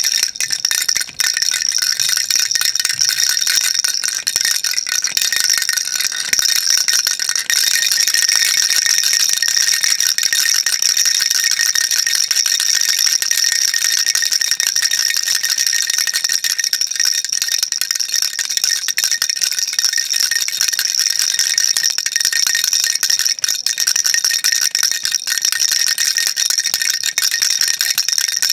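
Baby rattle shaken without pause, a dense, steady, high-pitched rattling, with a brief break about a second in.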